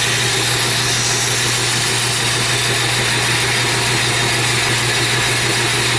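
Belt grinder running steadily, a constant low hum under an even hiss, during sharpening of a straight razor edge.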